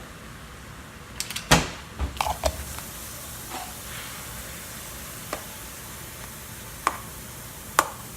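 Egg roll filling of cabbage, peppers and shrimp sizzling steadily in a frying pan as it is stirred, with a utensil knocking against the pan several times, loudest about one and a half seconds in.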